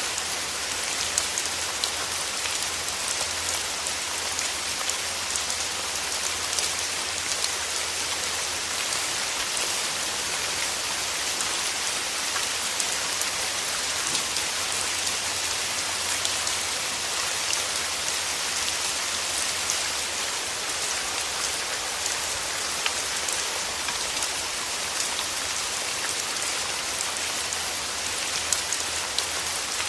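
Steady rain falling on rose petals, an even hiss of rainfall with many small, separate drop ticks scattered through it.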